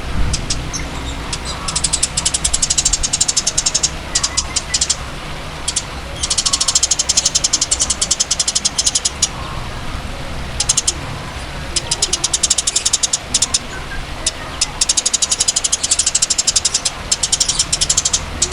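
Songbird giving rapid, high, buzzing chatter trills in bursts lasting one to three seconds, with short gaps between them, over a steady low background hum.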